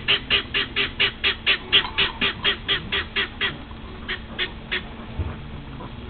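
A bird calling in a fast run of short squawks, about four a second. After three and a half seconds the calls slow and fade into a few weaker ones.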